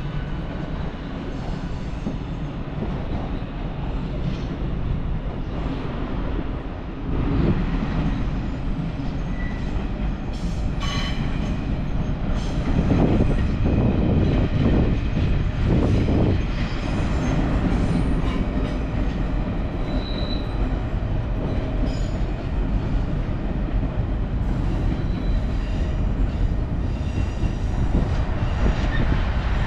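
A train running on the tracks: a steady low rumble that grows louder about seven seconds in, with brief high wheel squeals now and then.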